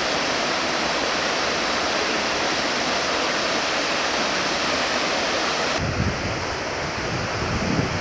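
Waterfall: a steady, dense rush of falling water. About six seconds in the sound changes abruptly, and gusts of wind start buffeting the microphone over the water noise.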